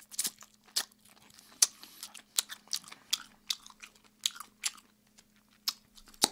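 Close-miked, open-mouth chewing of oven-roasted chicken: wet lip-smacking clicks at an irregular pace, with a faint steady hum underneath.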